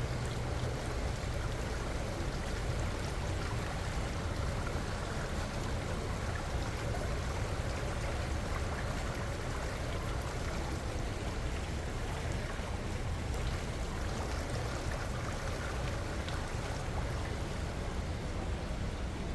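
River water flowing: a steady rushing noise with a deep rumble underneath.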